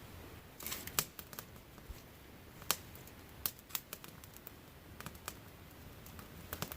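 Dry kindling snapping and clicking while a campfire is built: about ten scattered sharp snaps at irregular intervals over a faint steady background.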